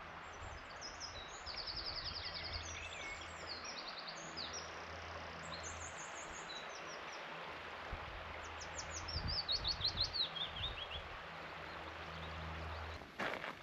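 Wild songbirds singing: a mix of short chirps and trills, with a run of notes stepping down in pitch about nine seconds in, over a faint steady low background rumble.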